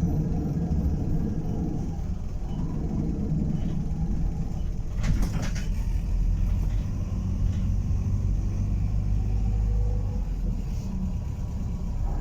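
Optare Solo SR single-deck bus running, a steady low rumble, with a brief rattle about five seconds in.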